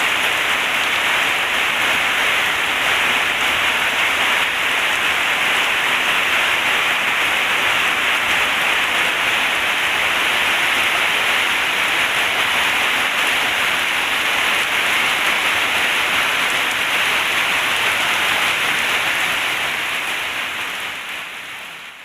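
Heavy rain falling in a dense, steady hiss, fading out over the last few seconds.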